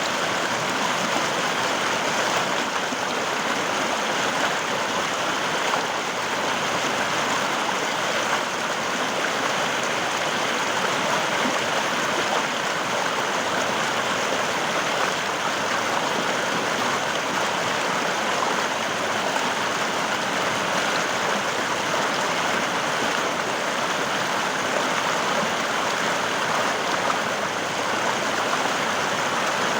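River water flowing steadily over rocks, a continuous even rushing.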